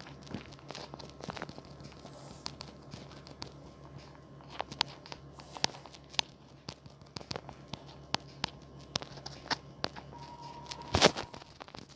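Irregular light taps and clicks of handling noise over a low steady hum, with a sharper, louder knock about eleven seconds in.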